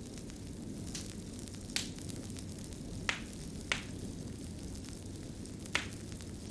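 Fire burning and crackling: a steady low rush with five sharp pops scattered across the few seconds.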